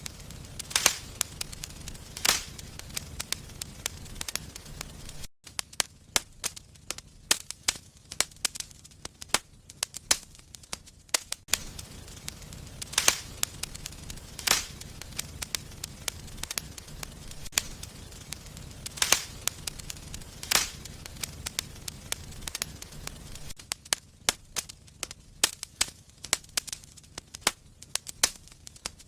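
Wood fire burning in a fireplace, crackling with frequent irregular sharp pops and snaps over a low steady rumble of the flames. The sound cuts out for an instant about five seconds in.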